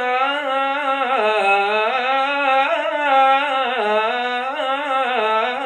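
A man singing a solo mawwal in the Moroccan Issawa 'aroubi style. He holds one long melismatic vowel line without words, the pitch winding up and down in ornamented turns.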